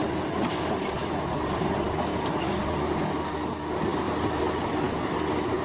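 Heavy diesel earthmoving machinery running steadily with a low rumble, and insects chirping rapidly and high-pitched over it.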